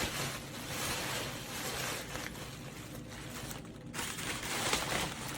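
Rustling and scraping of cardboard packaging being handled, an uneven hiss with faint clicks that dips briefly about three and a half seconds in.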